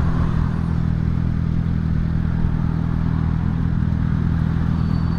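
Motorcycle engine running steadily at low revs, its pitch holding level.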